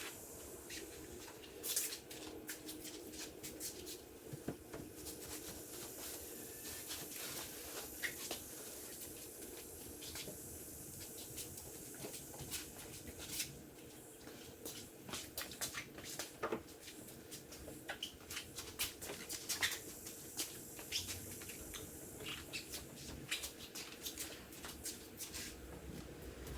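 Irregular light scratching, rubbing and clicking of hand car-detailing work, many small ticks close together over a faint steady hum.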